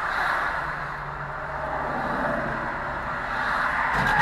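Steady road noise of a moving car, with a faint low engine hum underneath. A few sharp knocks come near the end.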